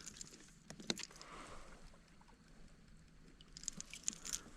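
Faint handling noise in a fishing kayak as a freshly caught white bass and tackle are dealt with: a sharp click about a second in, then a cluster of small clicks and taps near the end.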